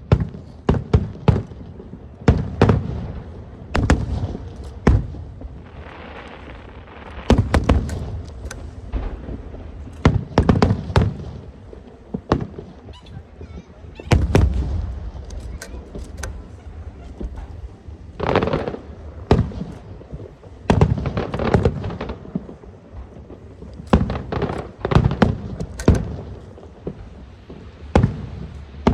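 Aerial fireworks going off: an irregular run of sharp shell bursts and bangs, often in quick clusters, each with a short echoing tail.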